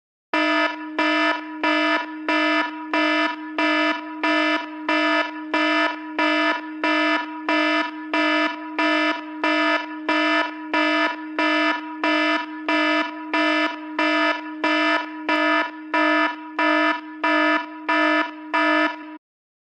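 Electronic alarm tone beeping over and over: over thirty short, buzzy beeps of one steady pitch, each starting with a click, about one and a half to two a second, stopping abruptly shortly before the end.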